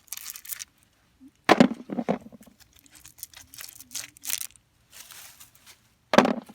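Rustling and crinkling handling noises, with a loud bump about a second and a half in and another near the end.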